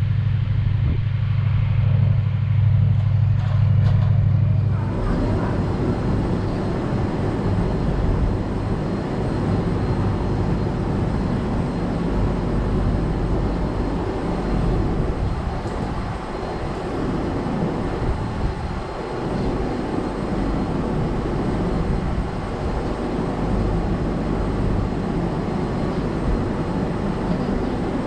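Passenger train running, a steady loud rumble. For the first five seconds or so a deep steady hum dominates, then it changes abruptly to a rougher, broader running rumble.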